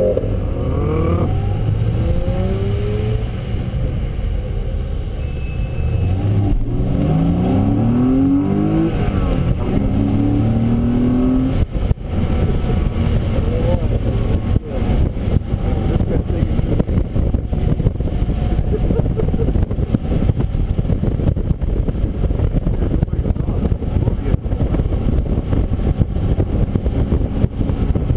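A car engine under hard acceleration on track, heard from an onboard camera mounted on the car. For the first ten seconds or so its pitch rises and drops back several times as it shifts up through the gears. After that it settles into a steadier loud mix of engine, wind and wet-road noise with frequent crackles.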